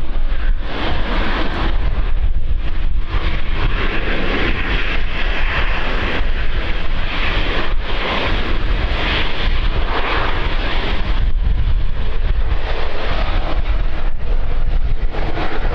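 Wind buffeting the microphone: a loud, irregular low rumble and broad rush that rises and dips with the gusts.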